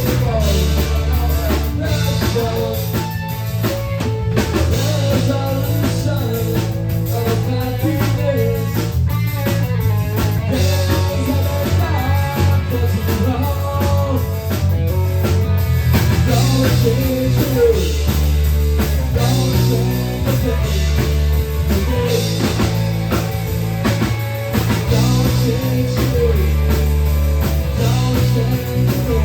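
Rock song playing loudly and continuously, with drum kit, guitar and singing.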